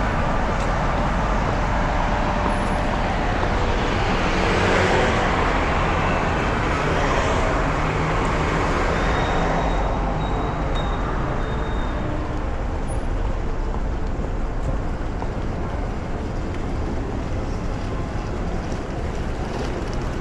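Road traffic: a steady wash of passing vehicles, with one passing loudest about five seconds in.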